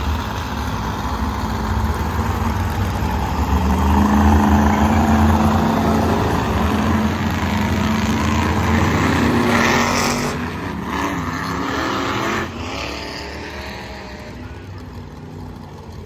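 Monster truck engine running and revving, loudest in the middle stretch, then dropping off suddenly about twelve seconds in and fading as the truck moves away.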